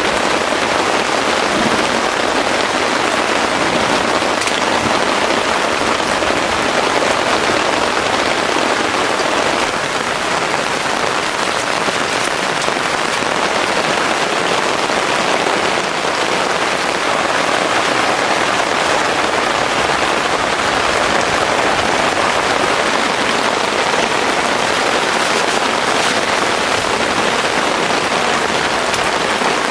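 Heavy rain pouring down steadily, a dense even hiss with scattered drop ticks.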